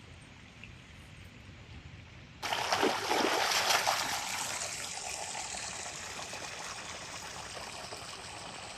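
Water pouring and splashing, starting suddenly a little over two seconds in and slowly tapering off.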